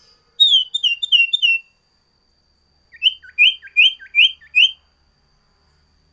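Common iora (sirtu) singing two quick phrases of sharp, high whistled notes: about a second in, four notes that each slide downward, then after a short pause a run of five notes that each rise sharply.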